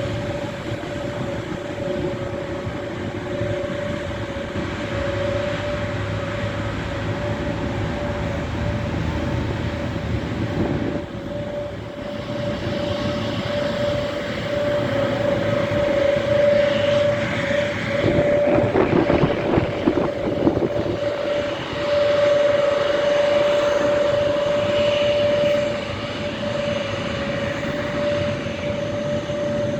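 Airbus A321neo's jet engines running with a steady whine over a rumble, swelling louder and rougher for a few seconds about two-thirds of the way in.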